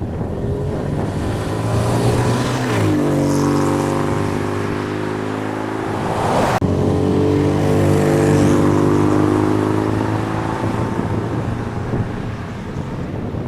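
Car engine running as the car drives, its pitch shifting and dipping about three seconds in, with a sudden break about six and a half seconds in before it carries on and fades toward the end.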